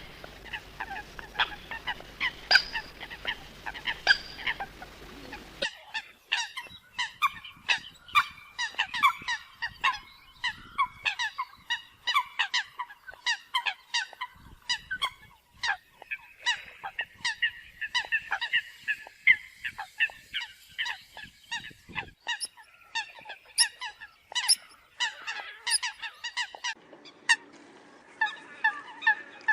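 Eurasian coots calling: a dense run of short, sharp calls, several a second and often overlapping, as from a flock. The recording changes abruptly about six seconds in.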